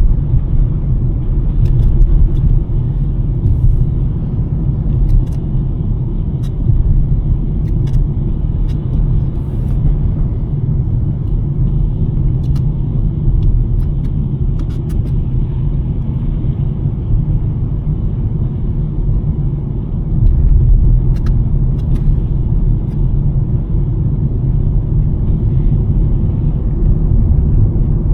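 2023 Nissan Sentra driving on a snowy road: a steady low rumble of engine and tyre noise, with a scattering of faint, brief clicks at irregular moments.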